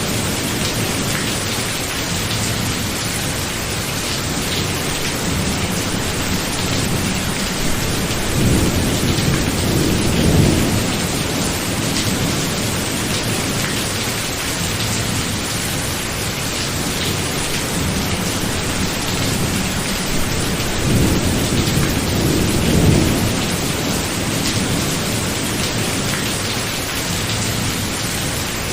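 Heavy, steady rain with thunder rumbling low twice, once about a third of the way in and again about two-thirds in.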